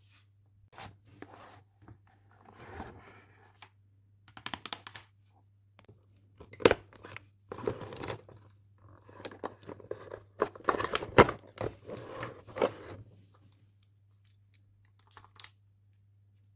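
Toy packaging being handled: snipping, tearing and crinkling in irregular bursts, with a few sharp clicks.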